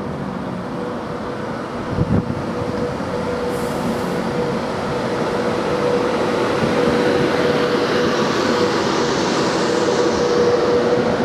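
Class 390 Pendolino electric train running past along the platform: a steady rumble of wheels on rail with a constant hum, growing louder as the carriages go by. There is a short thump about two seconds in, and a hiss builds up near the end.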